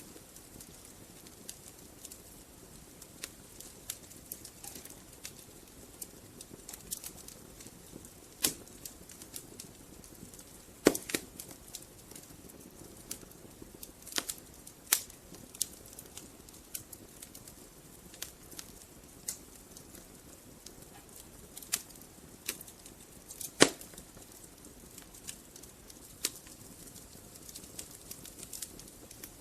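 Wood fire burning in a fireplace: a soft steady hiss with irregular crackles and sharp pops from the logs, a few pops much louder than the rest.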